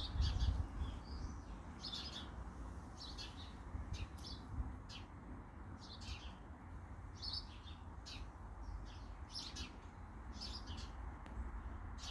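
Birds chirping, short repeated calls one or two a second, over a steady low background rumble.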